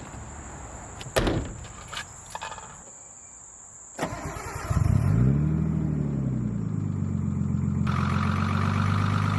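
A few sharp clicks, then a 1989 Nissan Skyline's rebuilt engine starts about four seconds in, revs up briefly and settles into a steady idle. A fast ticking rides over the idle: a lifter tick, which the owner puts down to reusing the original 36-year-old lifters.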